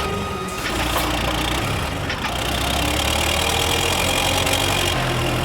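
Cartoon car engine sound effect, running steadily.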